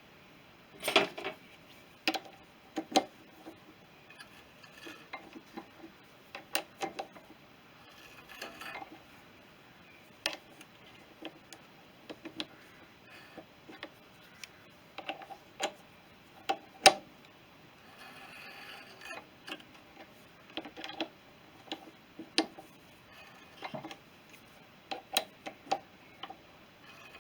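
Irregular metallic clicks and clinks from hand-threading: an M10 die being worked round by hand to start a thread on a turned bar. The clicks come at uneven intervals, some much louder than others.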